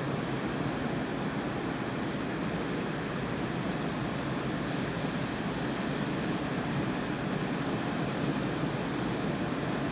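Steady outdoor background noise, like distant traffic or wind hiss, with a faint high chirp pulsing evenly on and off; no thunder is heard.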